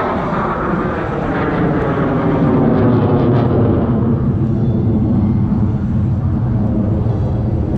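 USAF Thunderbirds F-16 fighter jet flypast: jet engine noise that builds to its loudest about three seconds in, its pitch falling steadily as the jets pass.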